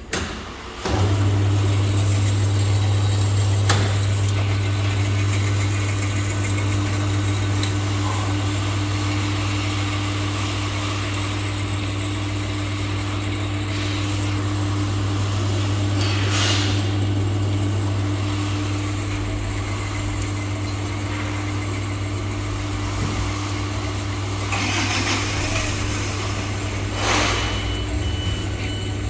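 Single-phase electric motor of a TruPro metal-cutting bandsaw switched on about a second in, then running with a steady hum through its belt drive, with a few brief clicks and rattles along the way.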